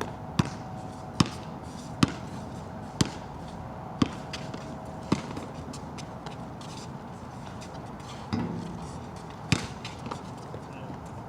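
Basketball bouncing on a wet court, single sharp bounces roughly once a second and then more sparsely, over a steady hiss of rain.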